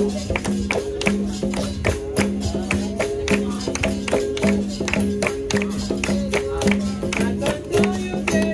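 Capoeira roda music: berimbaus sounding their two alternating notes in a steady repeating rhythm, over a pandeiro and other percussion striking several times a second.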